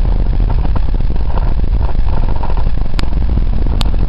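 Car engine running with a steady low rumble, heard from inside the car. Two sharp clicks sound near the end, a little under a second apart.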